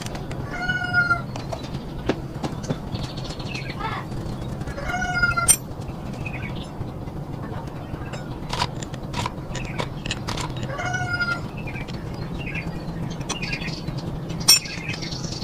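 A cat meowing three times, each call drawn out for about half a second and spaced about five seconds apart, over scattered short clicks and taps and a low steady hum.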